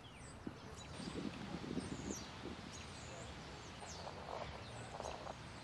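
Small birds chirping in short, high calls over a faint outdoor background, with a few muffled low sounds about a second in and again near the end.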